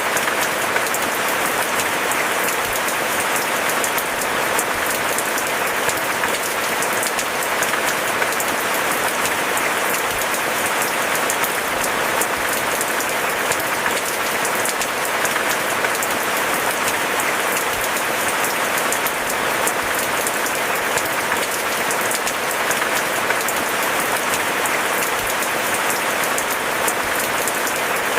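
Steady rain falling, a dense, even patter of many drops with no thunder.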